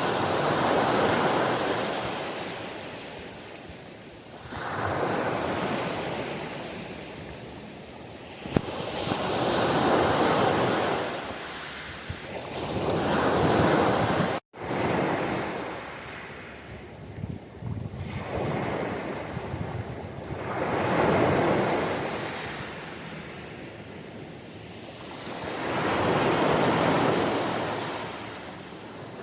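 Ocean waves washing onto the shore, swelling and ebbing in slow surges about every four seconds. The sound cuts out for an instant about halfway through.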